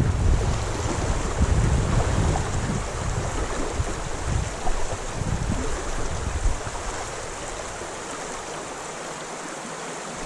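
Strong wind gusts buffeting the microphone over the steady rush of a creek. The buffeting eases after about seven seconds, leaving mostly the rushing water.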